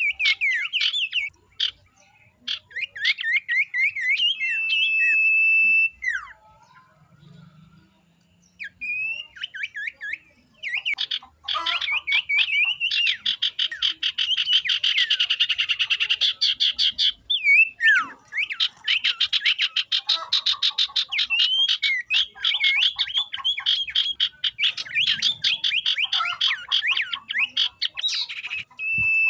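Flock of young wild sirtu birds calling: rapid chattering notes and a held whistle, a few quiet seconds, then long, dense runs of fast trilling.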